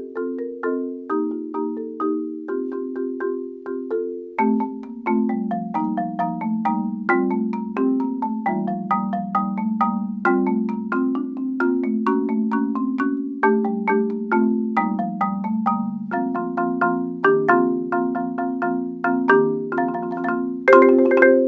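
Solo marimba played with four mallets: a steady stream of struck notes in broken chords with a melody over them. About four seconds in, lower notes join and the texture thickens, and a louder chord is struck near the end.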